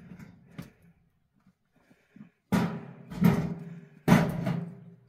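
Three loud knocks about a second apart, each with a short ringing tail, after a few fainter knocks.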